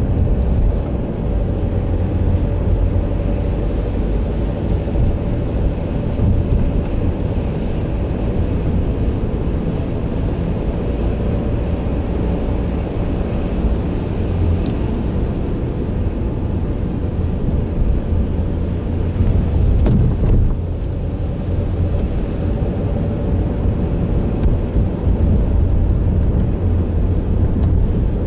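Steady low rumble of a vehicle driving, with a faint steady hum above it.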